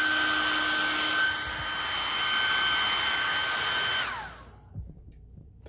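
Hair dryer blowing steadily with a high whine, warming a sewing machine's feed-dog mechanism that may be frozen; it is switched off about four seconds in and its whine falls away as the motor spins down.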